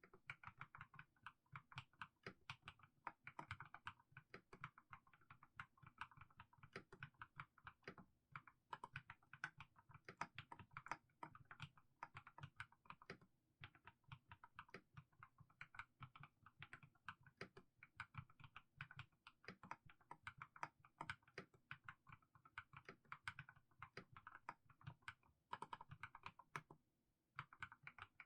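Quiet keystrokes on a mechanical keyboard with fully lubed Haimu Sea Salt switches, typed in a slow, steady stream of soft clicks with a brief pause near the end.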